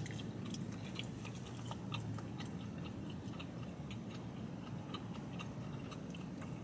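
A person biting into and chewing a mouthful of tough, chewy chopped brisket sandwich on a soft bun, with many small wet mouth clicks, over a low steady hum.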